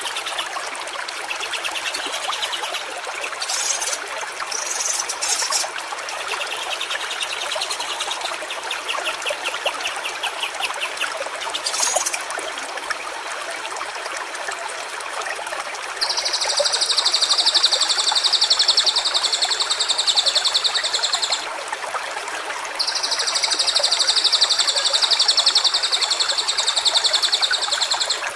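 A stream trickling steadily, with scattered bird chirps in the first half. About halfway through, a loud, steady high-pitched buzz starts and runs for about five seconds, stops briefly, then comes back.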